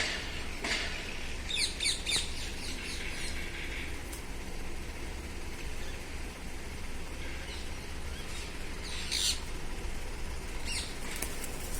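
Parrot calling with short sharp chirps and squawks: a quick run of calls about two seconds in, then scattered single calls near the end.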